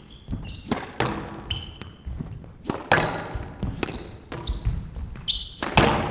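Squash rally in play: the ball cracking off rackets and walls at irregular intervals, about a dozen hits, mixed with short high squeaks of players' shoes on the court floor.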